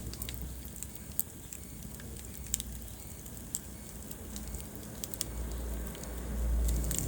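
Wood fire crackling in a fireplace: scattered sharp pops over a steady low rumble of the flames, the rumble swelling near the end.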